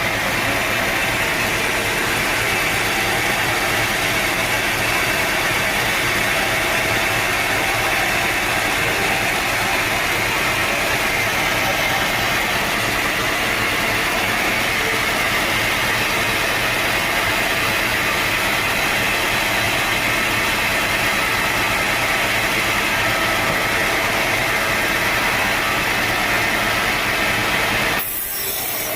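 Sawmill machinery running steadily: a loud, even mechanical drone with steady motor tones. About a second before the end the sound drops slightly and changes abruptly.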